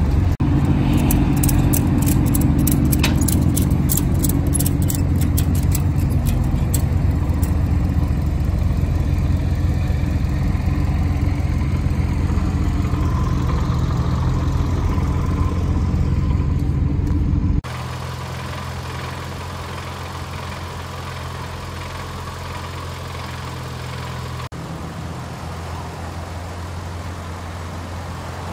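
A vehicle engine idling steadily, loud and close, with a quick run of sharp clicks in the first few seconds. About two-thirds of the way in it cuts abruptly to a quieter, steady idle.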